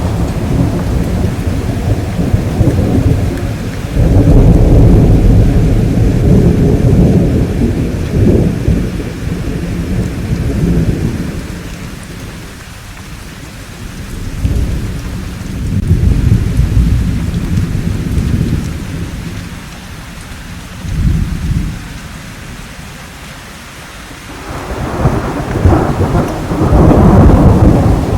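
Thunderstorm: steady rain hissing throughout, with rolling thunder in waves: a long heavy roll starting about four seconds in, a softer roll in the middle, a short burst a little later, and a loud roll building near the end.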